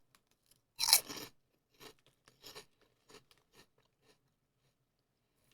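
Close-up crunching and chewing of Lay's Boca Bites, a light, airy wheat snack. One loud crunch comes about a second in, followed by a few softer crunches that die away by the middle.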